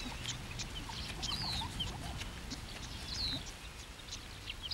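Grassland ambience: birds calling with short whistles that fall in pitch, a few times, mixed with quick chips, over a faint low rumble.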